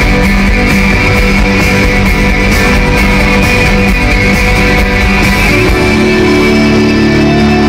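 Live rock band with guitars playing loud through an arena PA, heard from the crowd. About six seconds in the low end drops away, leaving a held chord ringing.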